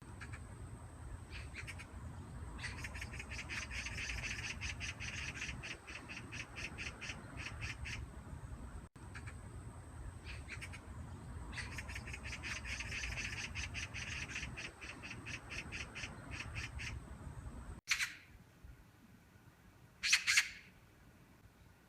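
Magpie chattering: two long runs of rapid, harsh rattling calls, then, after a cut, two short, louder single calls.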